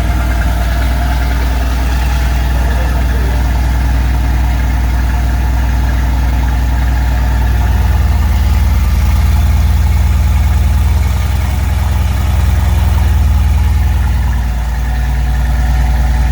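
Mercedes-AMG GT's twin-turbo V8 idling steadily just after a cold start, a deep, even idle with small swells and no revs.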